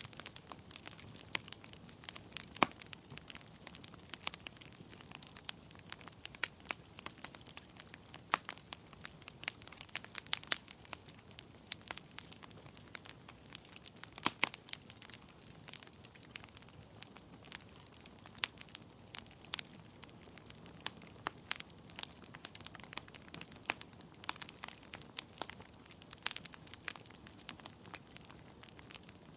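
Wood fire burning in a fireplace: logs crackling with irregular sharp pops and snaps over a low steady hiss of flame, a few pops much louder than the rest.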